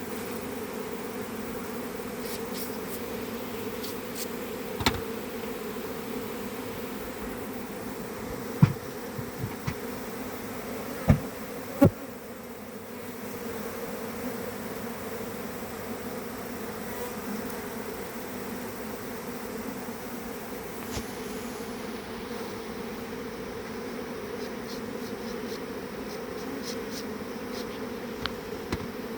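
A swarm of honeybees buzzing in a steady hum, with four sharp knocks in the first half.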